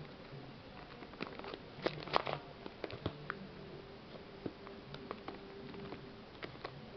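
Scattered clicks and crinkles of an opened plastic bird-food packet being handled, with a faint steady hum underneath.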